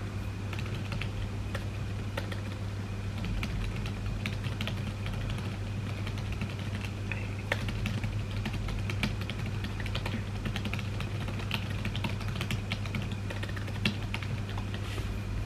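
Typing on a computer keyboard: quick, irregular key clicks throughout, over a steady low hum.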